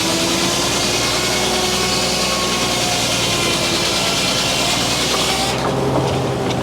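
Frick sawmill's circular blade cutting through a poplar log, a dense hissing rasp over the steady hum of the mill; about five and a half seconds in the blade leaves the cut and the hiss drops away, leaving the mill running.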